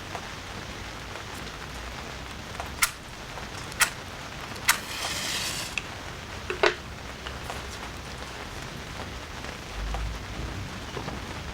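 Steady rain falling, with a few sharp drip-like taps and a brief hiss about five seconds in.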